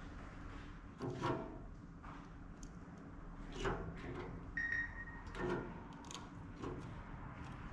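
Scattered clunks and rattles of sheet-metal pellet grill parts being handled during reassembly: four knocks, with a short high squeak or scrape about halfway through.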